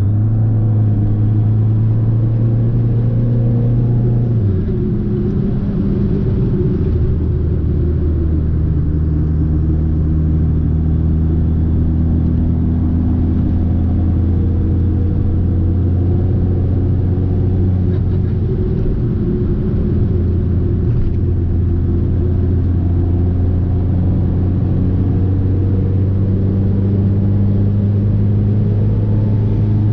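Fiat 500 Abarth's turbocharged 1.4-litre four-cylinder engine pulling the car along. Its pitch drops about four seconds in and shifts again a few seconds later, then holds fairly steady with small rises and falls.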